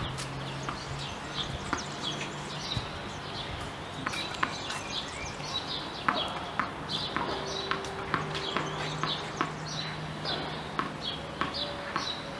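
Small birds chirping repeatedly over a low steady hum, with occasional light knocks.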